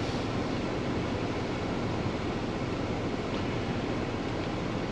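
Steady rumble and hiss inside a day-cab semi truck's cab: the diesel engine running with the cab's general noise, without breaks or changes.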